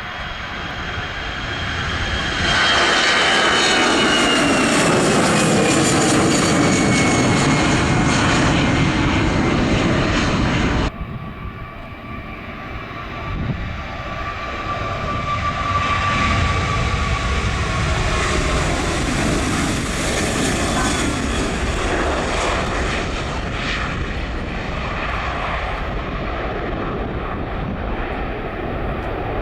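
Airliner engines passing close by, with a high whine that slides down in pitch as the aircraft goes past. The sound cuts off abruptly about 11 seconds in, and a second airliner's engines then build up loudly.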